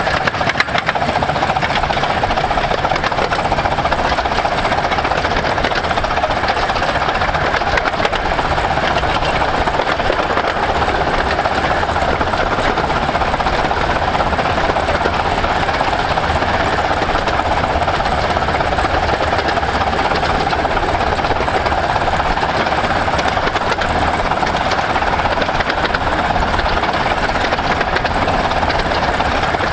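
A 15-inch-gauge steam train, hauled by the 4-8-2 locomotive Hercules, running steadily along the line: a loud, continuous fast-beating mechanical noise that does not let up.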